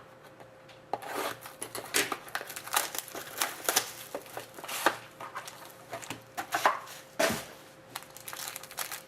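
Plastic card packaging being crinkled and torn open by hand, a dense run of irregular crackles and rustles starting about a second in.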